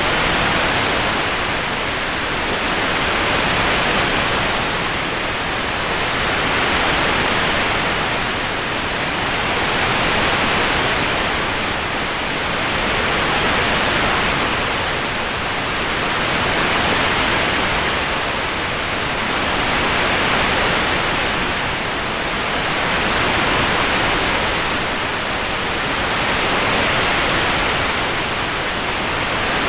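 Rain-sound ambience track heard as an even hiss with no separate drops or clicks, swelling and easing gently about every three seconds.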